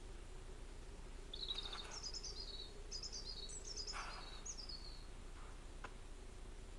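Birdsong: several short phrases of high, quick chirps, each sliding downward, over a faint steady hum.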